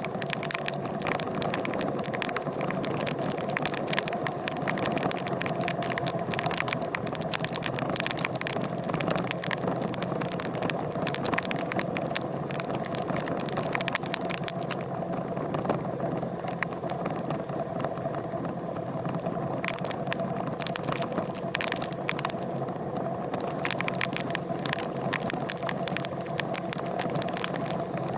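A vehicle engine running steadily at an even pitch, with many sharp clicks and crackles over it that thin out for several seconds around the middle.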